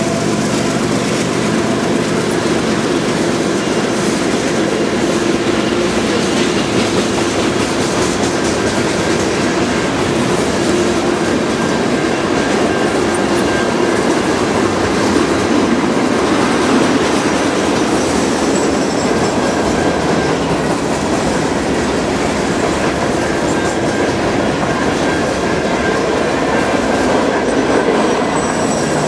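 Freight cars rolling past at speed: a steady, loud rumble and clatter of steel wheels on the rails. Thin, high wheel squeal comes in during the latter part.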